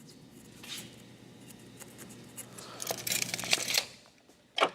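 Pencil scratching layout marks on a wooden turning blank: a short stroke about a second in, then a run of quicker scratchy strokes, over a faint steady hum, with a sharp click near the end.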